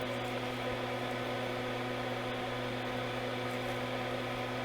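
Steady electrical hum with a constant hiss underneath, from bench equipment or mains.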